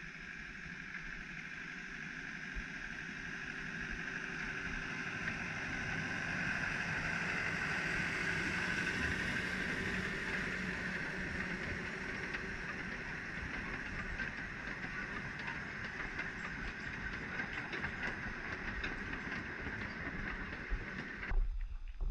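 Taipingshan Bong Bong train, a small narrow-gauge forest train hauled by a yellow diesel locomotive, approaching and rolling past: its engine and wheels on the rails grow louder over the first several seconds, then run on steadily as the open carriages go by, until the sound cuts off near the end.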